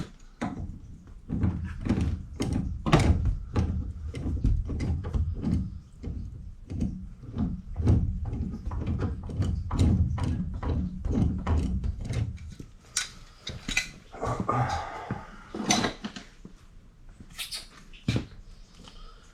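Irregular knocking and clattering of tools and fittings being handled during condensate drain plumbing work, with dull thumps for much of it and a brief rustle about fourteen seconds in.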